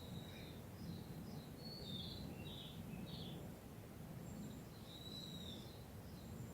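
Small birds chirping with short, scattered notes, over a steady low outdoor rumble.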